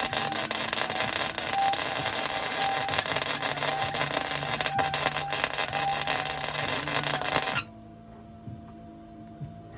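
Electric arc welding a joint on scrap steel: a steady crackling, sizzling hiss that stops abruptly about seven and a half seconds in when the arc is broken.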